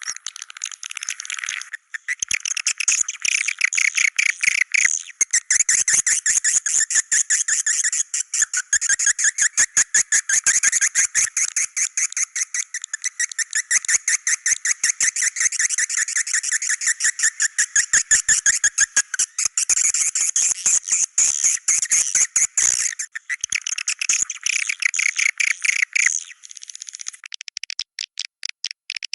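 Swiftlet calls from a swiftlet-house lure recording: a dense, unbroken stream of rapid, high-pitched chirps and twittering trills.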